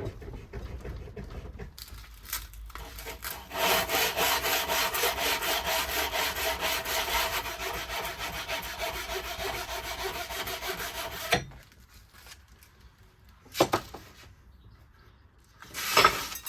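Hand tool worked in rapid, even back-and-forth strokes, rasping across the workpiece with a faint ringing underneath. It starts quietly, grows louder a few seconds in and stops abruptly, and two sharp knocks follow near the end.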